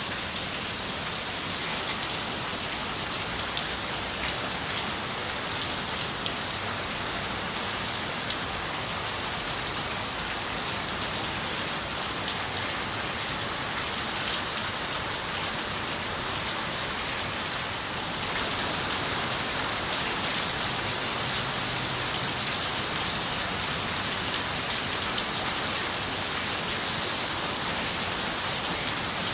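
Steady rain on a window: a dense, even hiss of rainfall with scattered sharper ticks of single drops, growing slightly louder a little past halfway.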